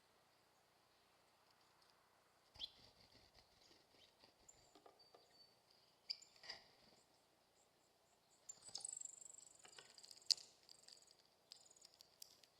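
Birds at a seed feeder: faint scattered taps and clicks with short high chirps, and a brief high buzzy trill about nine seconds in.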